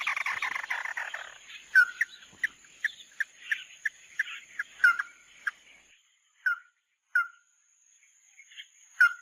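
Recorded calls of the bird that Vietnamese bird-trappers call "mắt đỏ": a dense rapid trill in the first second and a half, then a string of short, sharp calls at about one or two a second, with longer gaps near the end.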